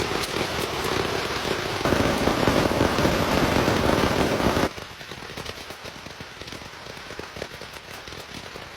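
Heavy rain falling in a dense, steady rush that gets louder about two seconds in, then drops off suddenly to a lighter patter of separate drops.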